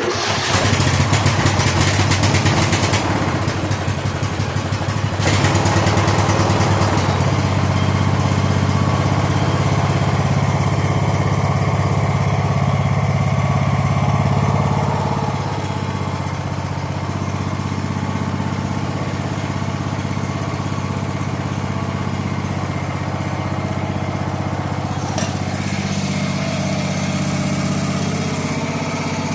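Craftsman LT3000 lawn tractor engine running, with its freshly cleaned carburetor reinstalled. It runs steadily, louder for about the first fifteen seconds, then settles a little quieter.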